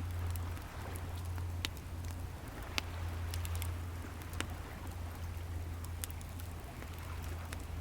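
Wood fire crackling, with scattered sharp pops over a steady low rumble and hiss of waves breaking on the shore.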